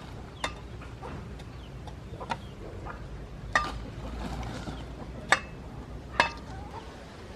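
Chickens clucking, with a few short sharp calls or knocks spaced a second or two apart over a low background hum.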